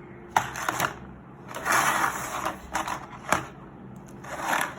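Handling noise from the unboxed neckband earphones and their packaging: four short scratchy rustles and a sharp click about three seconds in.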